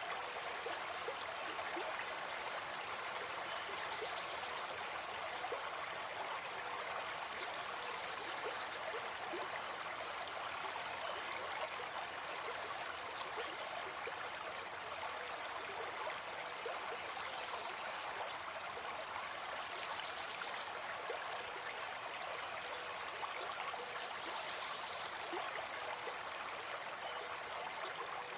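Gentle forest stream flowing steadily, an even rush of running water.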